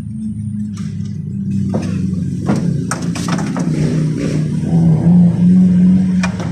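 An engine running steadily, getting a little louder around five seconds in, with several sharp metallic clicks and clatter over it.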